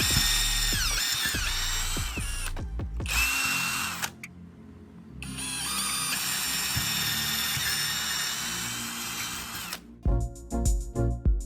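Electric power drill running in two runs, its whine dropping in pitch under load during the first, with a short pause about four seconds in. Background music with a beat comes in near the end.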